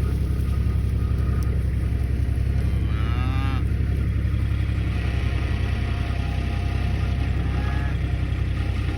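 A cow moos once, briefly, about three seconds in, over a steady low rumble.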